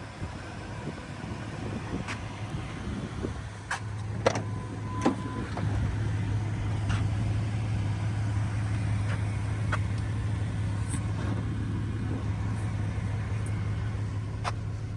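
A 2005 Ford Ranger pickup running at idle, a steady low hum that grows stronger about five seconds in, with a handful of sharp clicks and knocks, mostly in the first half.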